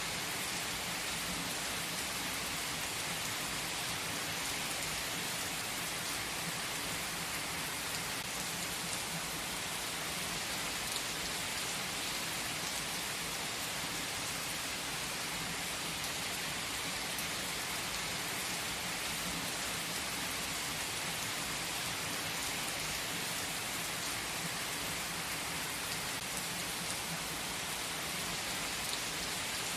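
Steady rain: an even, unchanging hiss that holds at one level throughout.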